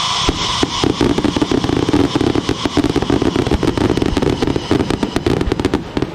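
Fireworks crackling: a dense, rapid run of sharp pops and crackles that thins out and stops near the end.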